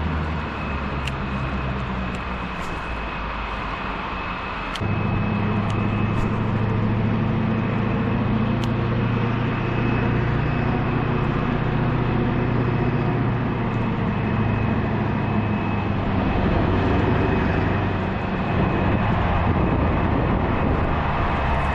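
An engine or motor running steadily with a low hum. It gets louder about five seconds in and eases back near the end.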